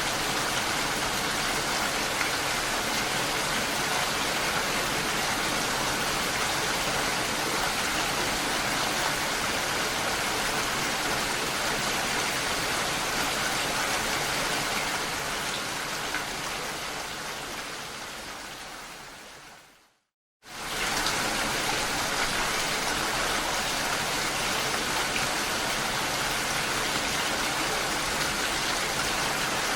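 Steady, dense rainfall, hissing evenly. About two-thirds of the way through it fades away over several seconds to a brief moment of silence, then cuts back in suddenly at full strength, like a loop or edit point.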